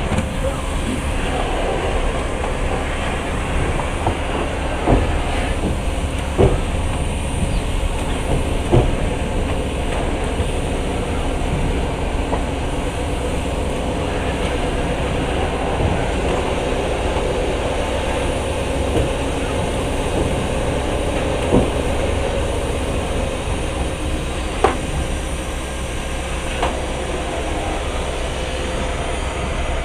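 Passenger train running along the track, heard from inside the carriage: a steady rumble of wheels on rails with a hum, and a sharp click every few seconds.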